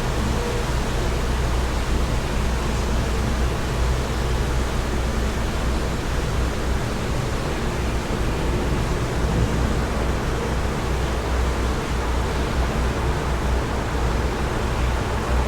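Steady wind noise with a constant low rumble underneath and no distinct events.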